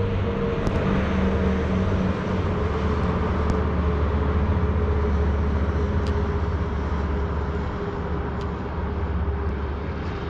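Full-size motor vehicle running nearby: a steady low rumble and road noise with a faint engine hum, swelling slightly in the middle and easing off towards the end.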